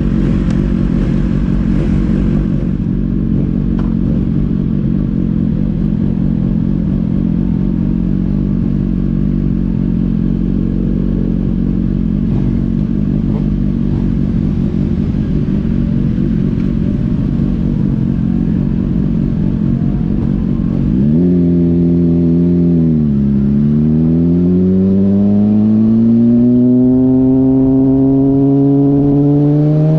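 Motorcycle engine running at a steady low rumble; about two-thirds of the way through its pitch dips briefly, then climbs steadily as the bike accelerates.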